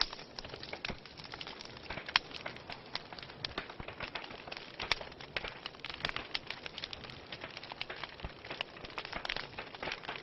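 Wood fire burning in a fireplace, with a steady hiss and many irregular sharp crackles and pops.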